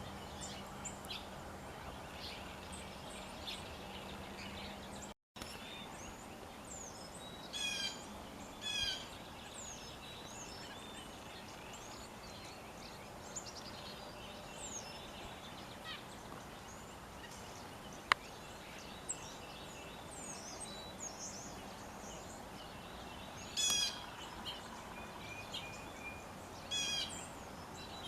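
Several wild birds calling, with many short high chirps and whistles and now and then a louder call of rapid repeated notes, over a steady background hiss. The sound drops out for a moment about five seconds in, and a single sharp click is heard later on.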